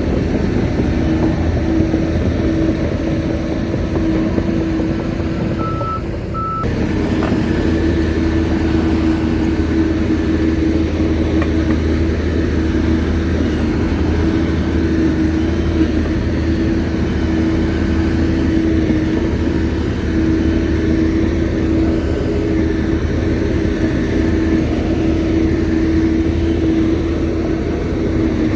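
Shantui bulldozer's diesel engine running steadily under work, with an abrupt break and change in the sound about six seconds in.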